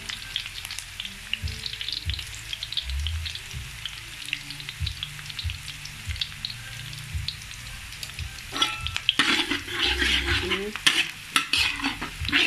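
Sliced shallots, garlic and ginger sizzling in hot oil in a metal wok, a steady crackle of small pops as the aromatics fry toward crisp and golden. About two-thirds of the way through, a spatula starts stirring and scraping them around the wok, and the sizzling gets louder and busier.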